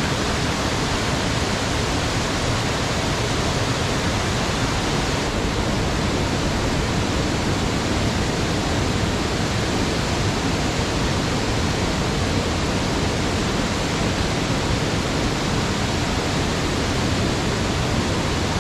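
Creek water rushing steadily over rocks, a loud, even rush.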